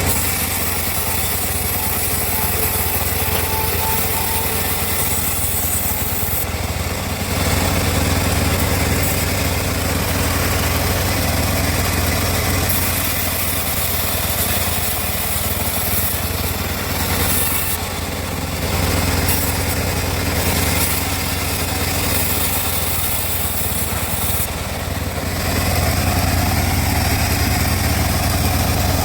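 Homemade log bandsaw mill running steadily with a constant low engine hum, while a high hiss from the blade cutting teak comes and goes in stretches of several seconds.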